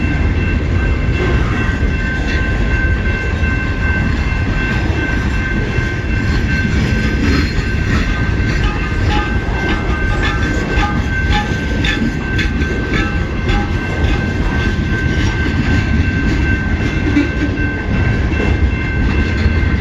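Cars of a long CN freight train rolling past in a steady heavy rumble, with wheels clicking over the rail joints and a steady high-pitched ringing tone.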